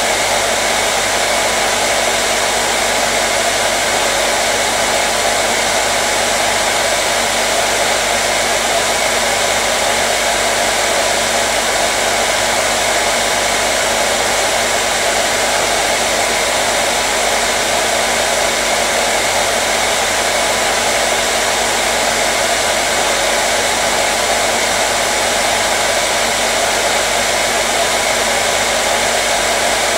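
Handheld hair dryer running continuously at a steady speed: an even, unchanging fan hiss with a low motor hum beneath it.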